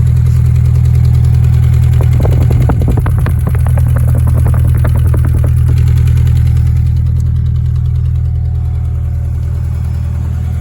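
2000 Honda Accord with an aftermarket Evil Energy muffler, its exhaust idling with a loud, steady low drone. The note turns rougher and more pulsing for a few seconds in the middle, then settles back.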